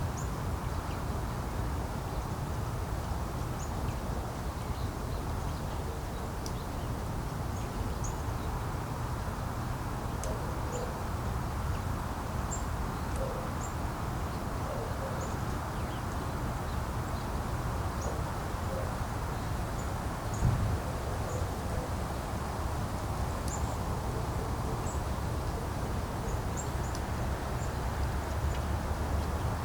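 Wind buffeting the microphone in a steady low rumble, with many short, high bird chirps scattered throughout and a single thump about two-thirds of the way through.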